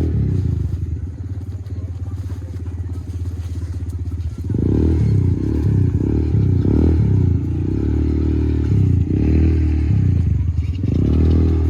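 A motor vehicle's engine running: steady for the first few seconds, then louder and changing in pitch from about four and a half seconds in, as if revving.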